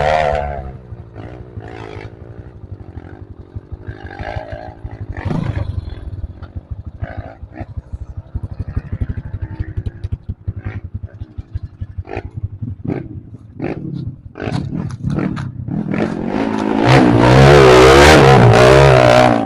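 Trail motorcycle engine on a rough off-road track, first running low with many sharp knocks and clatters. Near the end it revs hard, its pitch rising and falling, then cuts off suddenly.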